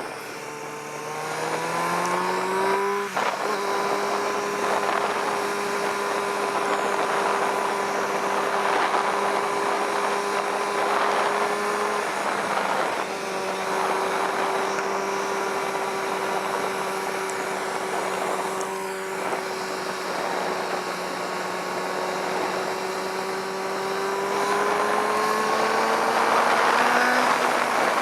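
Kawasaki ZX-6R 636 inline-four engine under way. The revs climb over the first few seconds, then break briefly for an upshift about three seconds in, and it settles to a steady cruise. There is a short lift of the throttle around twelve seconds, and the revs rise again near the end before dropping.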